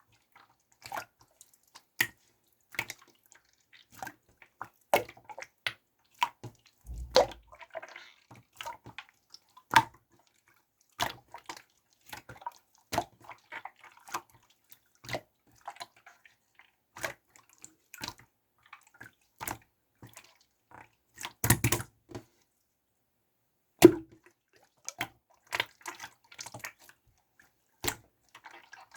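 Clear slime being mixed and worked, making irregular wet, sticky clicks and pops, with a short burst of several pops about two-thirds of the way through.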